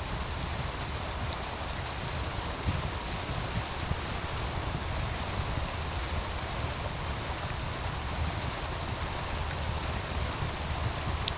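Steady rush of running meltwater from a stream, with a wood fire crackling over it: a few sharp pops, about a second in, at two seconds, and near the end.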